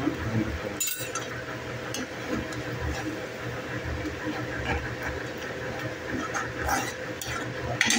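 Onion masala with powdered spices sizzling in hot oil in a steel kadhai as it is stirred. The steel spoon scrapes and clinks against the pan several times.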